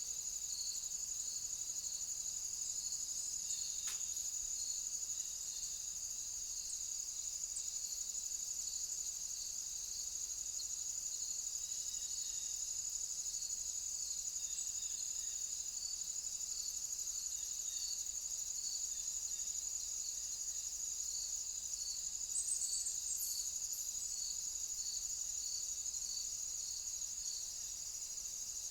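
Insects chirping: a steady high trill, with a second insect's regular chirps about once a second just below it. There is a single faint click about four seconds in.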